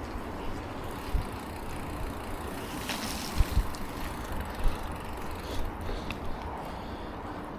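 Steady wind and road noise from riding a bicycle, with low wind buffeting on the action camera's microphone and a few short knocks in the middle.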